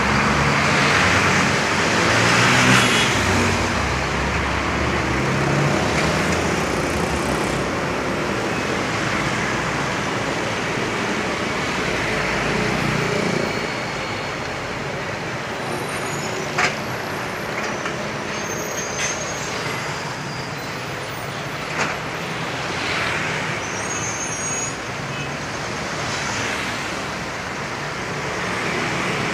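Road traffic with trucks passing: engines running and tyre noise. It is louder in the first half and eases off, with two short sharp clicks later on.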